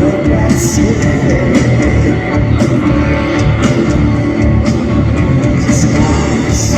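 Live rock band playing at full volume: a heavy electric guitar riff over bass and drums, with a cymbal stroke about once a second.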